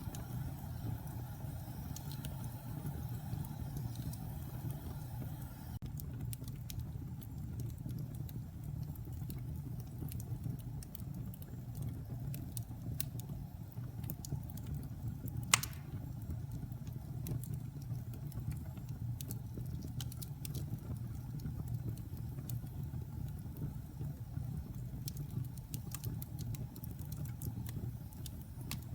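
Wood fire burning in a fireplace: a steady low rumble of the flames with scattered small crackles, and one loud sharp pop about halfway through.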